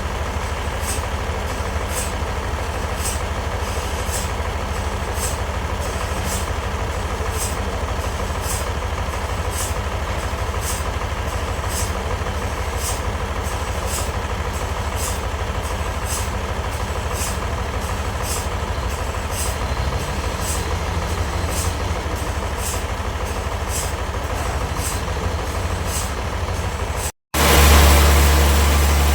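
Sawmill machinery running steadily: a low engine-like hum with a regular high tick about every two-thirds of a second. About 27 s in it cuts out briefly and is followed by a louder, deeper hum.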